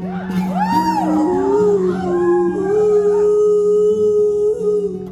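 Several audience voices whooping in long rising-and-falling calls, overlapping one another over strummed acoustic guitar, dying down in the last couple of seconds.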